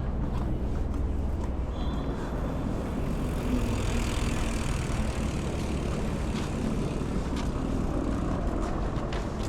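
Steady low rumble of a moving vehicle, with a few faint clicks and knocks.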